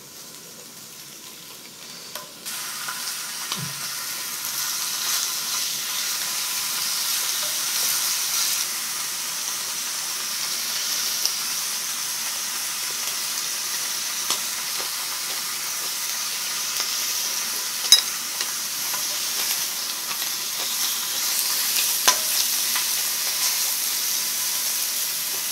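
Beef, scallops and mushrooms sizzling steadily on a hot round griddle pan. The sizzle swells a couple of seconds in as pieces are laid on. There are a few sharp clicks, two of them in the later part.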